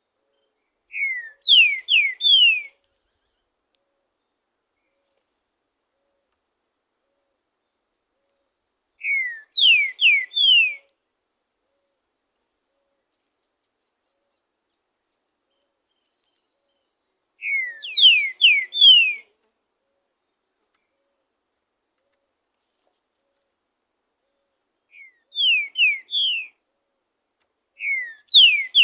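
Green-winged saltator (trinca-ferro) singing: five short phrases of three to five quick whistled notes each, several seconds apart, with silence between them.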